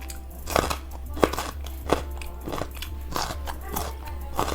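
A person chewing crisp raw fruit or vegetables, a crunch about every two-thirds of a second.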